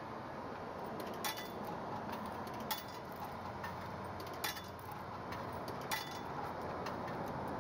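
Coins dropping one by one into a self-serve car wash's coin slot: four short metallic clinks, about a second and a half apart, over a steady background hum.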